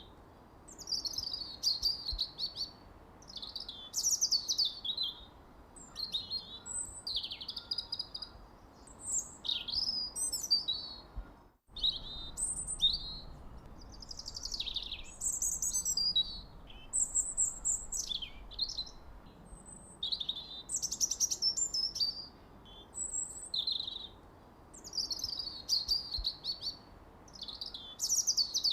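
Songbirds chirping and singing over one another in quick, high warbling phrases, one after another with hardly a pause. The sound drops out for a moment about twelve seconds in, then the chirping carries on.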